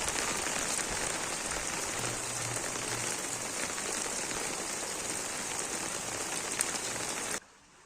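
Heavy rain falling, a steady hiss. It cuts off suddenly near the end.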